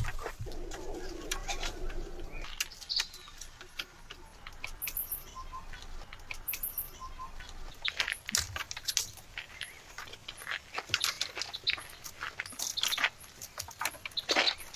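A bird cooing low, about half a second to two seconds in, with a few short chirps later, over many sharp clicks and snaps.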